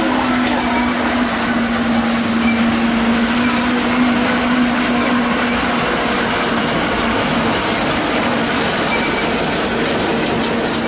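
Electric multiple-unit train approaching slowly: a steady rumble with a held hum that fades about seven and a half seconds in.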